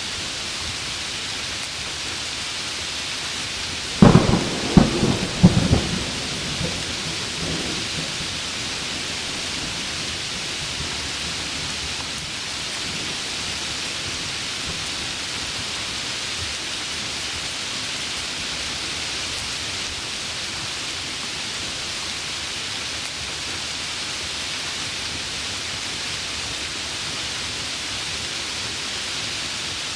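Heavy rain falling steadily, with a close thunderclap of several sharp cracks and rumbles about four seconds in that fades within a few seconds.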